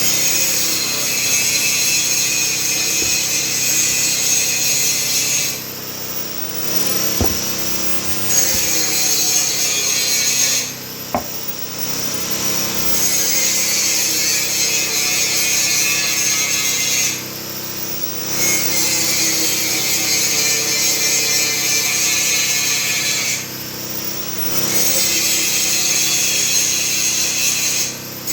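Stihl MS250 two-stroke chainsaw cutting wood at high revs, dropping to a lower speed four times for a second or two and then revving back up into the cut.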